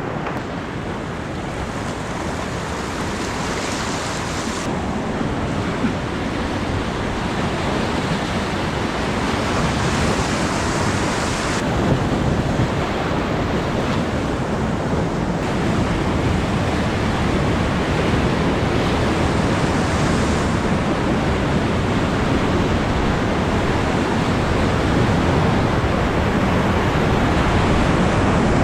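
Rushing whitewater of a river rapid: a steady wash of water noise that slowly grows louder, with some wind on the action-camera microphone.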